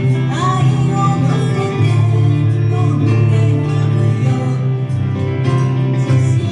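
A live band performing a pop song, with guitar prominent.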